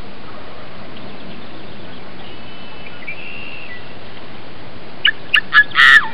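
A bird calling near the end: three short, sharp notes in quick succession, then a longer, louder note that slides down at its end, over a steady hiss. Faint high whistled notes come about two to three seconds in.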